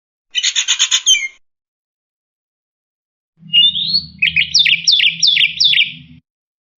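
A starling calls in two phrases: first a short, fast run of repeated chattering notes, then after a pause a longer string of about eight quick notes that sweep up and down.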